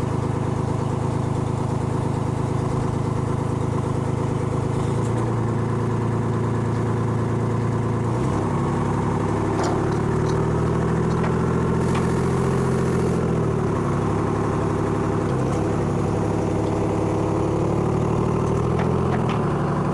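Crane engine running steadily under load, its speed stepping up twice and then rising and falling as the lift goes on, with a few sharp clinks and a short hiss near the middle.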